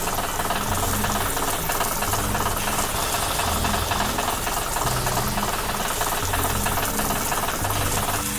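Cartoon-style heavy machinery engine sound, a fast, steady knocking chug and rattle, with low notes beneath that shift every second or so.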